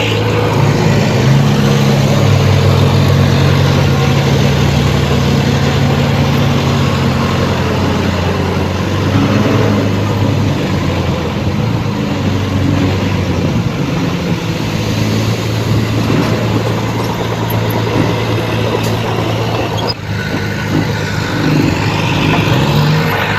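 Diesel engine of heavy earthmoving machinery running steadily under load, its pitch shifting up and down a few times, with a brief drop about 20 seconds in.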